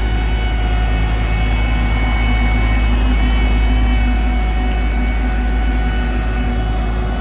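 Heavy diesel road-construction machinery running steadily at a paving site: a deep continuous rumble with a steady mechanical whine on top.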